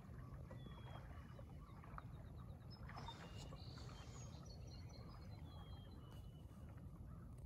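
Faint birdsong: thin whistled notes and a short quick trill over a low steady rumble.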